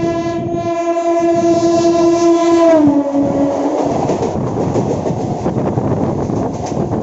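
Train horn sounding one long steady note whose pitch drops about three seconds in, stopping a second later, followed by the rumble and clatter of an electric multiple unit train running on the rails.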